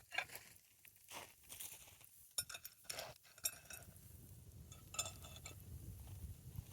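Scattered light clinks and knocks of dishes or utensils being handled, a few of them ringing briefly.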